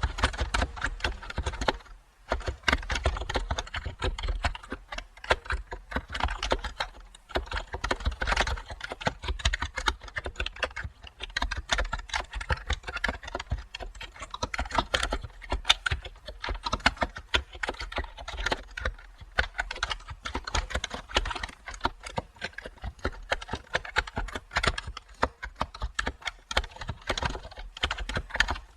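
Computer keyboard typing: a dense, irregular run of key clicks that starts abruptly, with brief pauses about two and seven seconds in.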